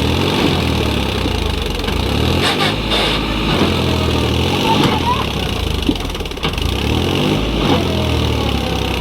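Tractor diesel engine running hard, its revs rising and falling.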